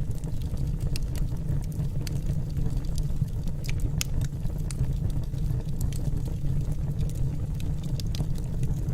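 Wood fire burning in a fireplace: logs crackling, with frequent sharp irregular pops over a steady low rumble.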